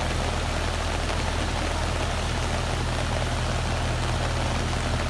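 Vehicle engine idling steadily, a low even hum with a steady hiss over it.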